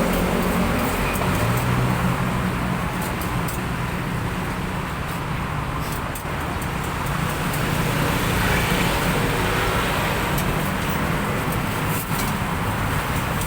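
Steady road traffic noise with motor vehicle engines running, a constant low hum and rumble.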